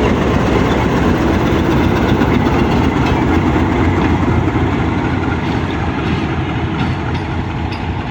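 Train running on the tracks at a railway station: a loud, steady rumble of the wheels on the rails that eases slightly toward the end.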